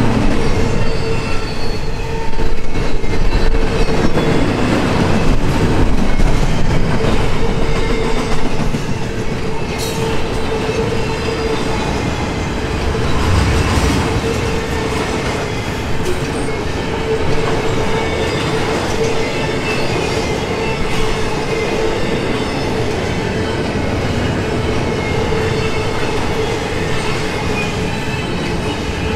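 Double-stack intermodal container cars rolling past close by: a steady rumble and rattle of steel wheels on the rails, with a steady ringing tone held over it. A little louder for the first several seconds.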